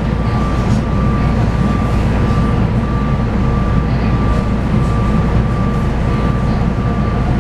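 Inside a moving SEPTA Regional Rail train car: the train running along the track with a steady low rumble, and a thin steady whine held above it.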